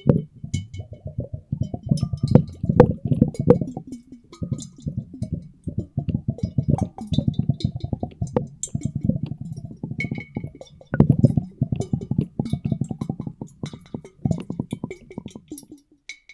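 Muffled, underwater-style water sounds made by sloshing water in glass bottles and churning a microphone in a bucket of water: a dense, irregular run of low plops and gurgles with scattered small clinks. It breaks off shortly before the end.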